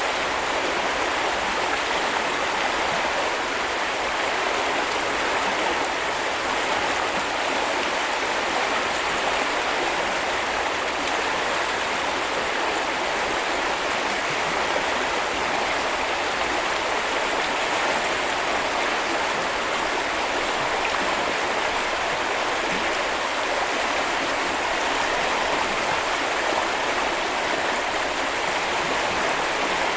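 A river's water flowing steadily, an even, unbroken sound of running water.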